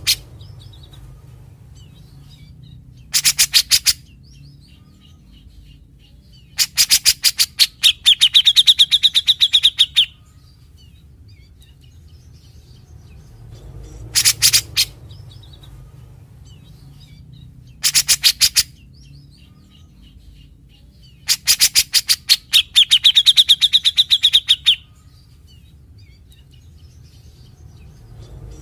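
Cucak jenggot (grey-cheeked bulbul) singing: repeated bursts of rapid, harsh chattering notes, the 'besetan' typical of this species. Two longer phrases end in a drawn-out higher note. A steady low hum runs underneath.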